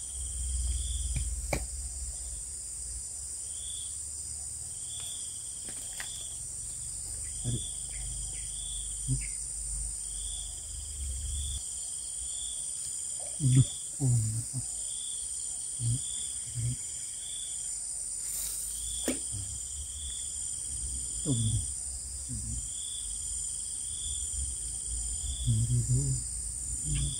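Insect chorus: a steady high drone, with trains of evenly repeated chirps at one pitch that come and go every few seconds. A few short low thumps are scattered through it.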